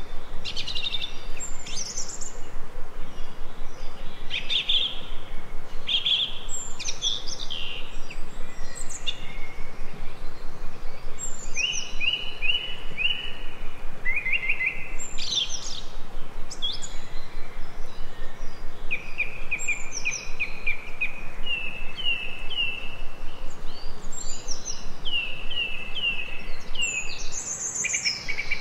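Birds singing: short phrases of quick chirps and rising whistles every second or two, over a steady hiss.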